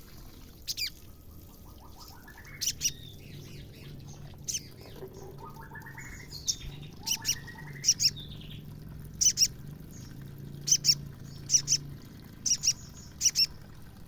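Female sogon (sogok ontong) calling. It gives short, sharp high chips, often in pairs, every second or so, and a rising chattering trill about two seconds in and again near the middle. These are the calls kept birders play as a lure to provoke male sogon into singing.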